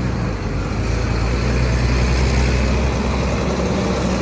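Motor vehicle engine running steadily, a low hum with a wash of noise over it that swells slightly midway.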